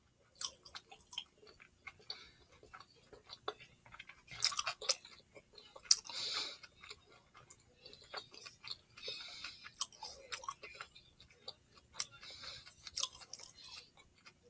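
A person chewing a mouthful of Philly cheese steak sub close to the microphone, with many small, irregular mouth clicks and smacks and a few louder ones.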